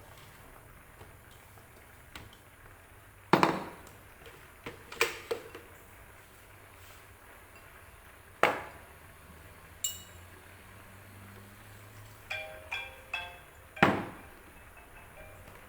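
Kitchen containers and utensils being handled on a counter: a few sharp knocks spread through, a single ringing ping about two-thirds of the way in, and a quick run of ringing clinks near the end.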